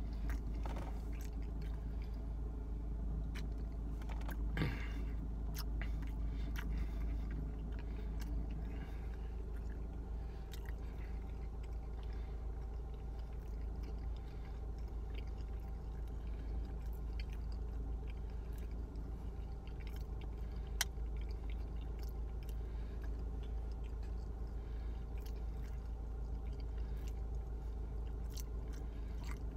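A person chewing food with small wet mouth clicks, over a steady low hum in a car cabin. A single sharper tick comes about two-thirds of the way through.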